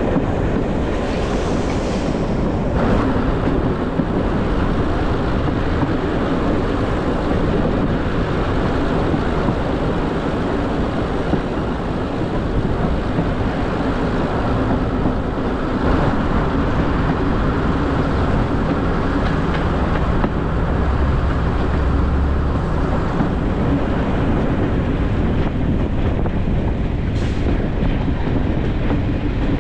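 Heritage railway passenger coach running steadily along the line, heard from outside its window: a continuous rumble of the wheels on the track, with a few clicks.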